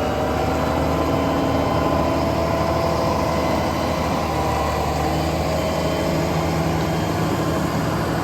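Heavy diesel engine of road-maintenance equipment running steadily at constant speed.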